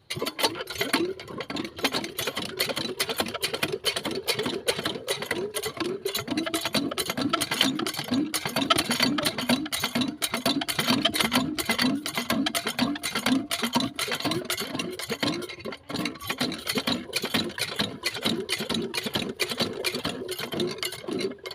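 Small diesel engine running steadily with a regular rhythmic beat and clattering, driving a water pump.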